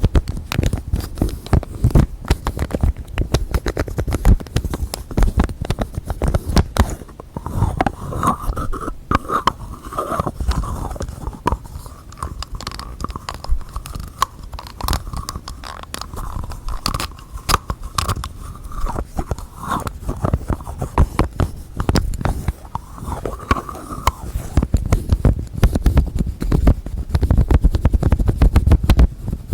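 Fast, dense tapping and scratching with fingertips and nails on objects and their lids, close-miked. A steady ringing tone sounds through the tapping from about a quarter of the way in to about two-thirds, and again briefly a little later.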